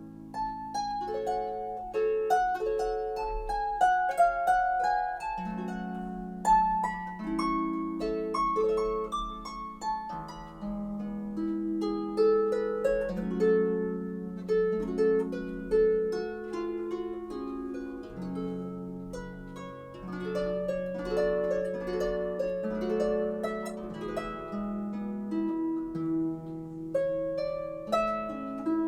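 Solo harp music: a continuous run of plucked notes moving up and down in a melody over lower ringing bass notes.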